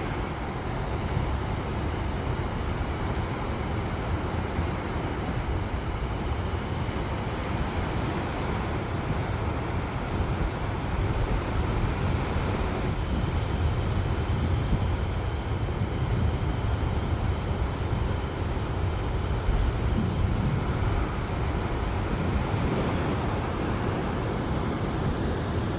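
Ocean surf breaking and washing ashore: a steady rushing noise with a deep rumble underneath, swelling a little partway through.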